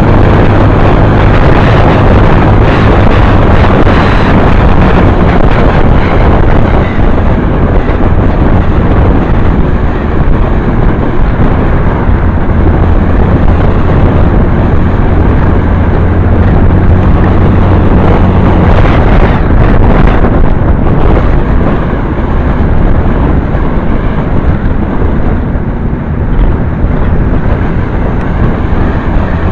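Motorcycle engine running under way, with heavy wind noise on the microphone.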